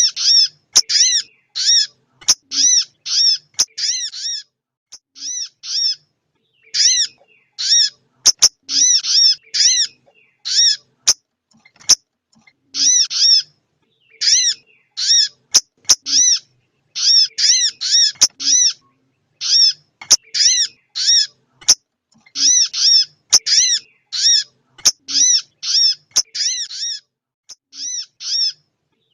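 Female sogon bird calling: runs of short, high arched notes, several a second, in bursts of a few seconds with short gaps between them. It is a female call of the kind played to male birds to excite them into singing.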